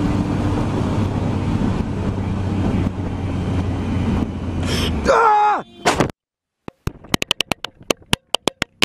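A vehicle engine running steadily under a loud rush of noise. About five seconds in, a pitched sound slides sharply downward. After a moment of near silence comes a quick string of about a dozen sharp clicks or knocks.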